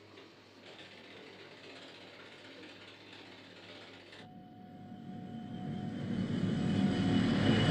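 Steady machine hum and hiss of a control room, cut off about four seconds in by a car engine that grows steadily louder as the car approaches.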